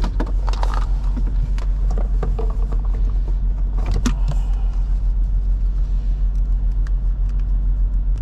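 A vehicle engine idling, a steady low rumble with an even pulse, with scattered clicks and knocks over it.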